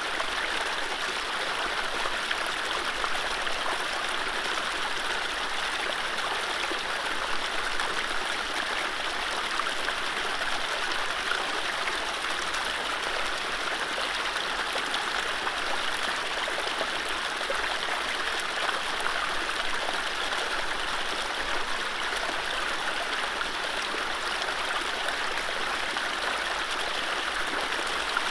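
Mountain stream running steadily over low rapids: a continuous even rush of water, with no birdsong.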